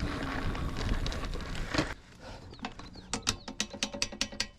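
Rushing riding noise for about two seconds, then the rear freewheel hub of a mountain bike clicking steadily, about six or seven ticks a second, as the wheel turns without pedalling.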